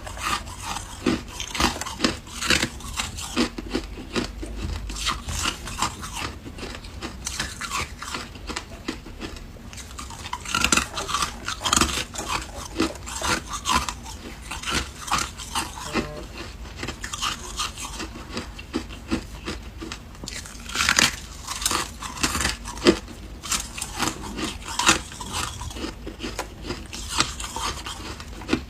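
Ice being bitten and chewed close up: a steady run of irregular sharp crunches and cracks, with louder bursts of crunching now and then.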